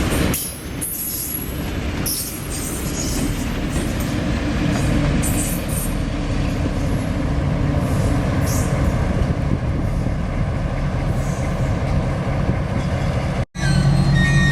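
Train moving along the track: a steady heavy rumble with short high-pitched squeals or hisses over the first several seconds. About thirteen seconds in it cuts out abruptly and a steadier droning sound follows.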